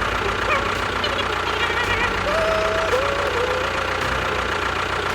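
An engine running steadily with a low, knocking pulse, with a few short wavering whistle-like tones over it.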